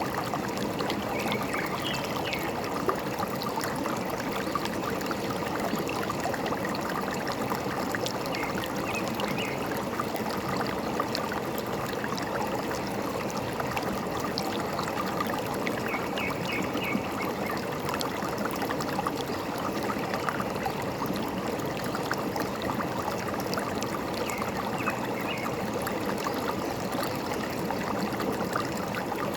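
A forest stream running and gurgling steadily, with faint, short bird chirps every several seconds.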